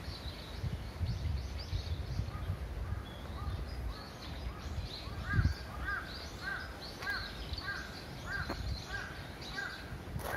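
Several birds calling with short, repeated chirping notes, coming about twice a second in the second half, over a low rumble.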